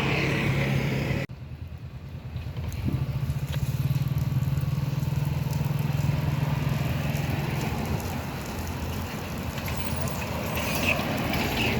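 A motor engine running steadily with a low hum, after an abrupt break in the sound about a second in.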